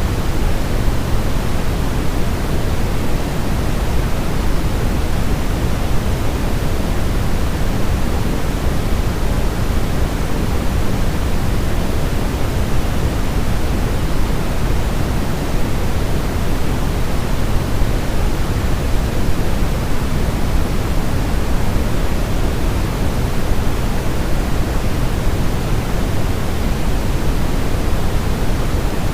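Steady white noise for baby sleep: an even, unchanging rushing hiss, heavier in the low end.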